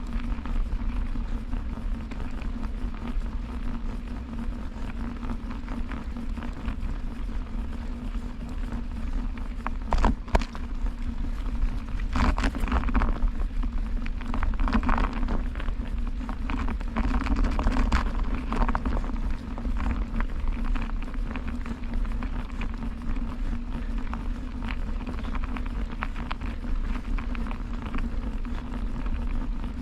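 Bicycle being ridden on a wet, snowy path: steady tyre and wind noise with a low hum, and a couple of sharp knocks about ten and twelve seconds in.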